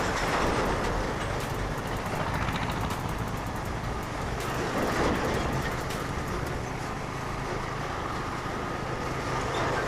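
Motorcycle engine running steadily on the move, under a constant rush of wind and road noise, with two brief swells of louder noise about half a second in and about five seconds in.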